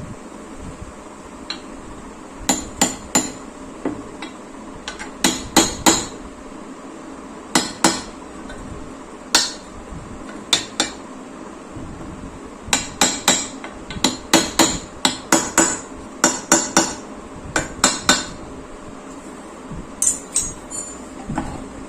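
Hammer tapping a kick-starter oil seal into its bore in a Yamaha RX clutch cover: many sharp taps in irregular bunches, some in quick runs of several blows.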